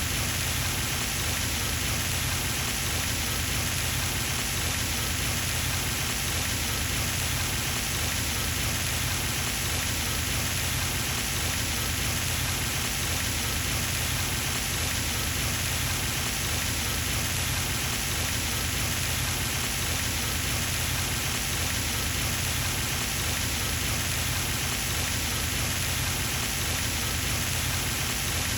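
Pond fountain running steadily, its spray splashing continuously back onto the water surface in an even, rain-like patter.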